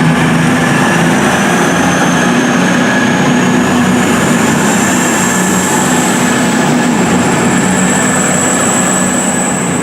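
Passenger train running at a station platform: a steady low hum under a high, thin whine that rises slowly in pitch.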